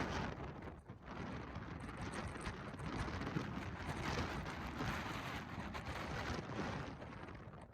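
Strong wind gusting across the microphone, a rushing, rumbling noise that rises and falls, easing briefly about a second in and again near the end.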